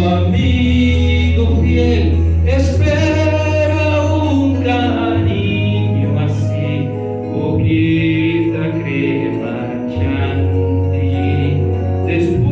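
A chorus of voices singing a musical-theatre number over instrumental accompaniment with a steady, heavy bass line.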